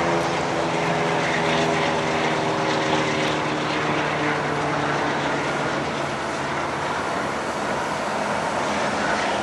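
Three EMD GP-series diesel locomotives leading a manifest freight train pass with a steady engine drone that fades out about halfway through, leaving the steady rolling rumble of the freight cars on the rails.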